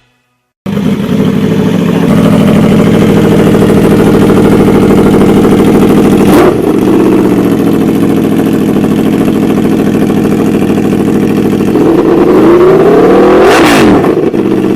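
Aprilia Tuono V4 X's 1.1-litre 65-degree V4 engine running at a steady note through the exhaust, with a quick throttle blip about six seconds in. Near the end it revs up in a longer rising run and drops back.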